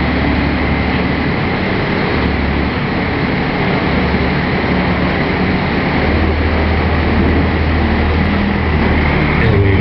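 Pulling truck's engine running hard under full load while dragging a weight sled, loud and continuous, with its low note shifting a few times.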